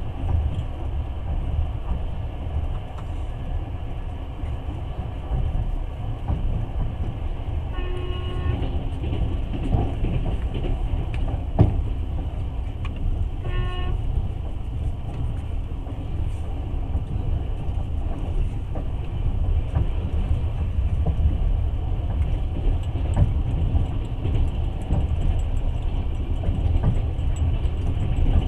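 Passenger train running on rails, a steady low rumble. Two short horn toots sound about eight seconds in and again about five seconds later, and a single sharp knock comes between them.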